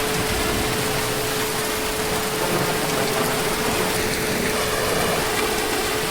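Heavy rain falling steadily as an even, unbroken hiss, with a faint steady tone underneath.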